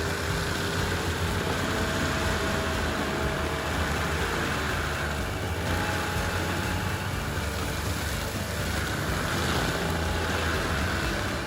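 Heavy forestry machine running steadily: an engine's low rumble under an even rushing noise, with no clear change through the stretch.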